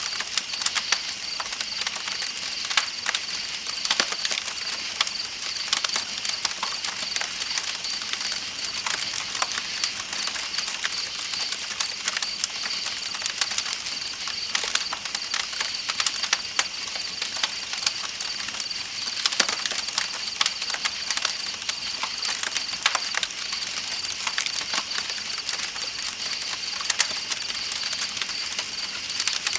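Campfire crackling with frequent sharp pops throughout, over a steady high-pitched trill of night insects and a soft hiss of flowing river water.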